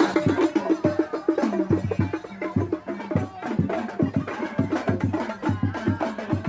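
Sholawat devotional chanting to a quick beat on hand drums, with the drum strokes to the fore.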